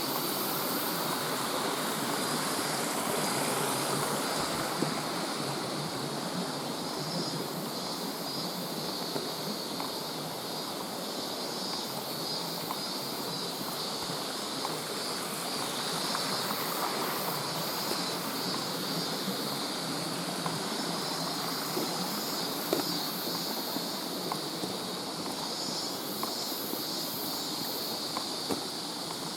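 Steady rushing of a mountain stream, with faint scattered clicks from the camcorder's loose monitor.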